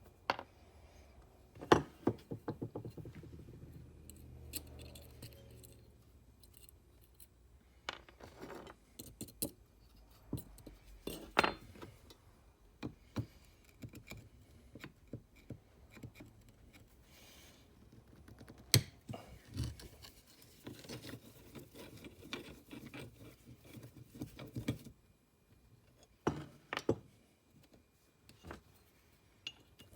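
Metal parts of a Stanley Bailey No. 5 jack plane being handled during disassembly: irregular small clicks and clinks, with a few louder knocks as pieces are set down.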